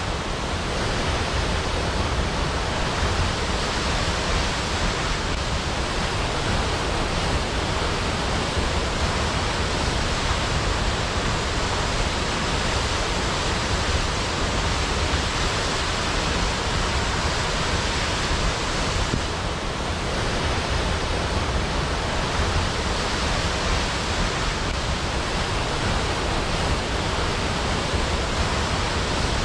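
A waterfall's falling water makes a steady, even rushing hiss that does not change.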